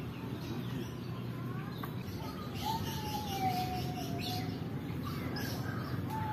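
Bird calls: one long call of nearly two seconds, slowly falling in pitch, in the middle, another starting near the end, with faint high chirps over a steady low background rumble.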